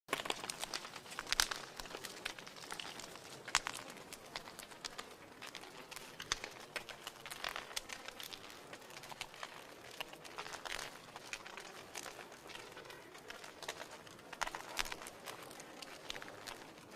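Wood fire in a fireplace crackling: a steady soft hiss with dense irregular snaps and a few louder pops every few seconds.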